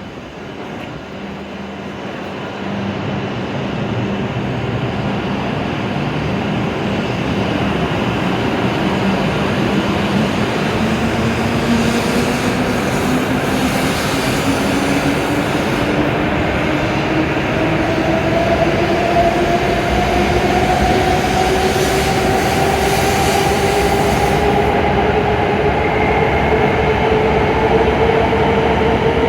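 W7-series Shinkansen pulling away from the platform. Its traction motors give a whine that rises steadily in pitch as the train accelerates, over the growing rumble of the passing cars.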